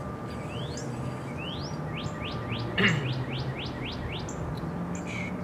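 A songbird singing a run of quick, rising whistled notes, a few slower glides leading into a rapid series of about a dozen. A single sharp click sounds about three seconds in.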